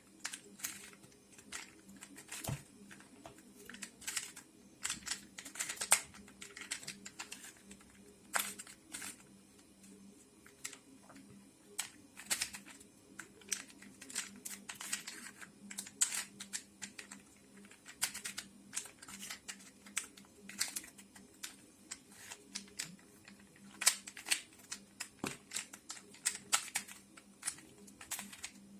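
3D-printed plastic twisty puzzle cube being turned by hand: irregular sharp clicks and light scraping as its layers are twisted, over a faint steady hum.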